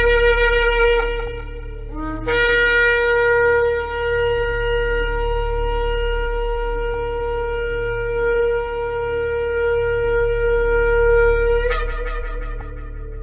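Ram's-horn shofar blown: a blast that stops about a second in, a brief low note, then one long held blast of about nine seconds that breaks upward in pitch at its end. A steady low hum runs underneath.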